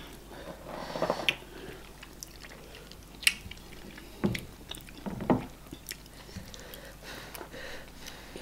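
Close-miked chewing and lip smacking of people eating eba (garri fufu) with okra soup by hand, with a few sharp wet smacks scattered among the quieter chewing.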